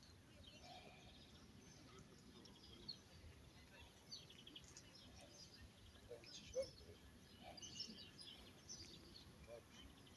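Faint birds chirping, with many short high calls over quiet outdoor ambience.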